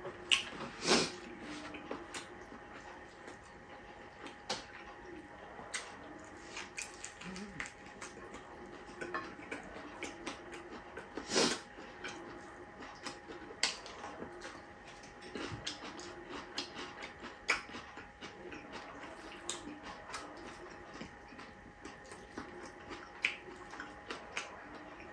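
Close-up eating sounds from a person eating by hand: chewing and lip smacking, with many short clicks and a few louder smacks, over a faint steady hum.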